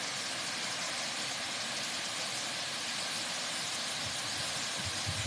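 Steady rush of water falling at a waterfall, an even hiss without breaks.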